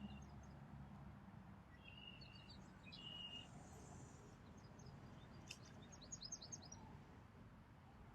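Faint birdsong near silence: a few short high notes a few seconds in, then a quick run of high chirps about six seconds in.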